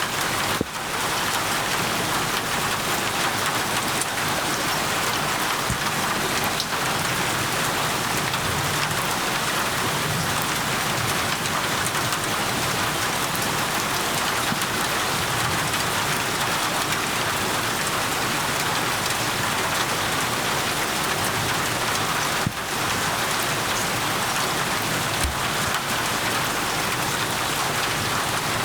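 Steady, heavy rain falling on surfaces, an even dense hiss that dips briefly twice.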